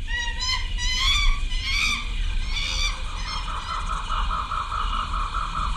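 Bird calls: several warbling, bending calls in the first three seconds, then a rapid pulsing call of about five pulses a second, over a steady low rumble.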